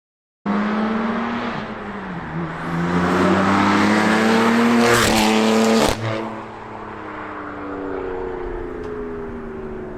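BMW M4's twin-turbo inline-six, breathing through catless downpipes and an FI exhaust, pulling hard with the pitch rising for a few seconds. About six seconds in there is a sharp break, an upshift or lift-off, after which the engine note eases gently downward. The sound cuts in abruptly about half a second in.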